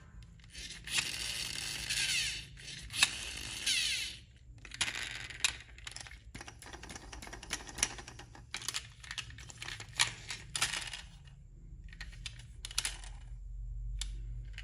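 Irregular clattering and scraping of small hard objects, in bursts with sharp clicks, loudest in the first few seconds, over a steady low hum.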